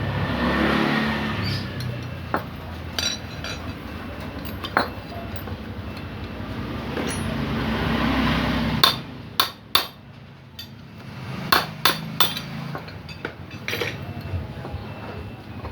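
Metal hand tools knocking and clinking against motorcycle engine parts during disassembly. A rough rustling clatter comes first, then a run of sharp separate knocks and taps about halfway through.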